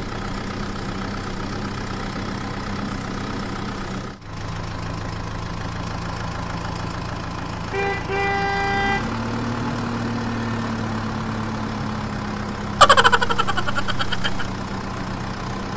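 Steady vehicle engine hum, added as a sound effect to toy play, briefly cutting out about four seconds in. About eight seconds in a short horn-like tone sounds. Near the end comes a louder, rapidly pulsing sound whose pitch falls.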